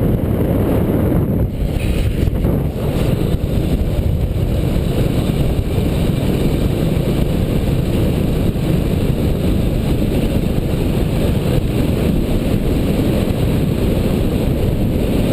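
Motorcycle riding: steady wind rush buffeting the microphone, with the bike's engine running under it.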